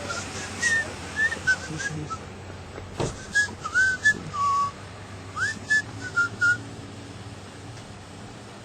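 A series of short whistled notes, some sliding upward, scattered over the first six or seven seconds, with a single sharp knock about three seconds in.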